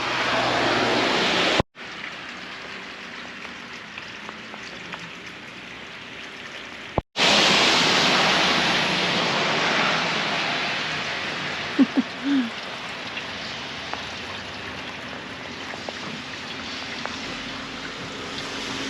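Steady rain falling, a continuous hiss that swells for a few seconds after the middle. The sound cuts out briefly twice.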